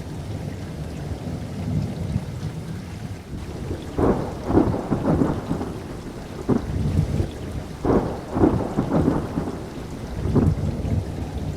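Thunderstorm: a steady low rumble of rain and distant thunder, broken twice by crackling, rolling thunder peals, about four and eight seconds in, with shorter cracks between and after.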